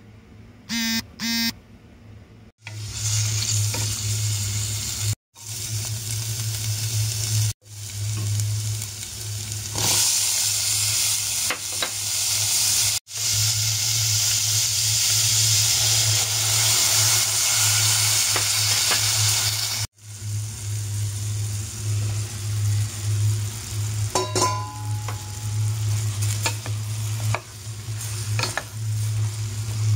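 Chopped squash and vegetables sizzling in a stainless steel pot: a steady frying hiss over a low hum, broken off abruptly several times. In the last few seconds a wooden spatula stirs the vegetables, with scrapes and knocks against the pot.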